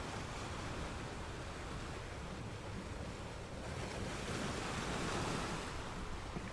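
Gentle ocean waves washing onto a sand beach, a steady rush of surf, with one wave swelling louder about four seconds in before easing off.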